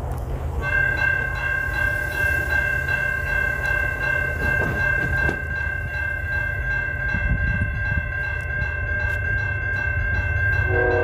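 Railroad grade-crossing warning bell starts ringing about a second in, over a steady low rumble. Near the end a locomotive horn begins to sound as a train approaches.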